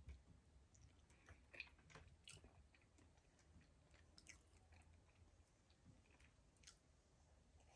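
Faint close-up chewing, with scattered small clicks and crunches of food in the mouth.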